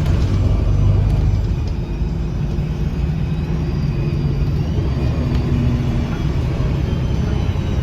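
Engine and Voith transmission of a 2009 Gillig BRT 40-foot transit bus, heard from on board, with a heavy low rumble while the bus is under way. The rumble eases a little about two seconds in, then holds steady.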